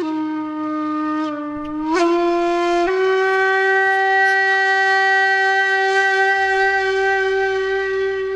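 A loud held horn-like note with many overtones. It steps up in pitch twice in the first three seconds, then holds steady.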